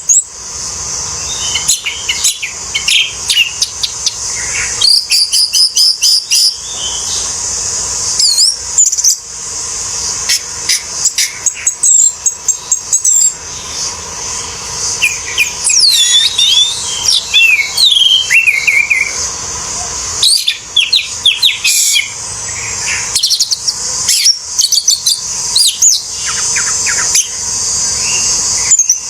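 Orange-headed thrush singing a long, varied song of quick whistled phrases and chattering notes, with short pauses between bursts, over a steady high-pitched hiss.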